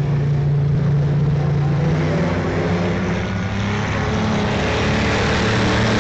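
Vintage race cars' engines running at speed. One engine's steady note stands out for the first two seconds, then the overlapping sound of several cars grows fuller and louder.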